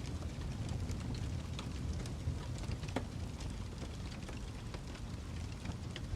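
Wood fire crackling in a fireplace: a steady low rumble with frequent small pops and crackles, one a little sharper about three seconds in.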